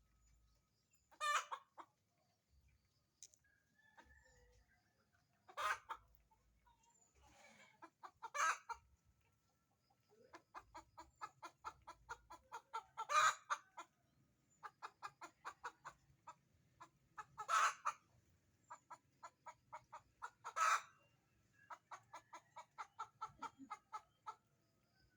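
A hen cackling: long runs of quick, even clucks, about three to four a second, broken by about six short, loud squawks. This is the cackle hens make around laying an egg.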